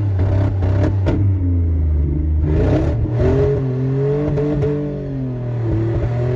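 2004 Dodge Dakota pickup's engine revving under load in second gear, its pitch climbing, dipping and climbing again. A few sharp clicks in the first second.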